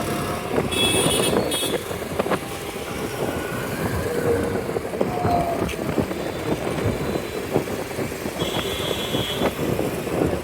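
Wind rushing over the microphone and road and traffic noise while riding a Bajaj Chetak electric scooter through city traffic, with faint brief high tones about a second in and again near the end.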